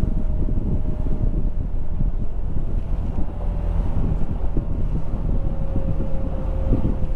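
Wind buffeting the microphone over a boat underway, its 100 hp Mercury two-stroke outboard running steadily. A faint steady whine sits in the engine sound and sinks slightly in pitch.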